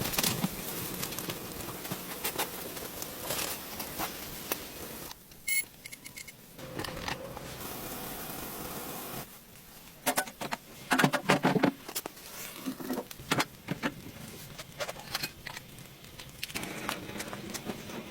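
Rustling, clicks and knocks of things being handled, over a steady hiss that drops out briefly a couple of times.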